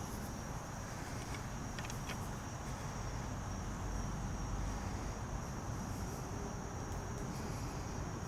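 Steady outdoor insect chorus: crickets trilling in one continuous high note, over a low background rumble.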